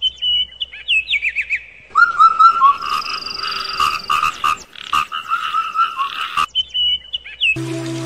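Frogs croaking in quick repeated notes, with birds whistling around them. The sound is spliced from separate nature recordings, so it cuts abruptly from one to the next.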